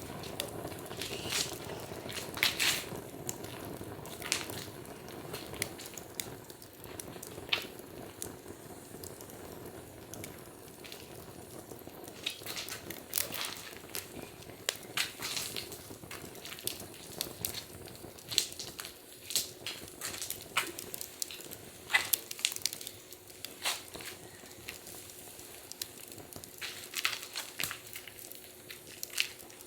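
Wood fire crackling: irregular sharp pops and snaps over a steady low hiss of the flames.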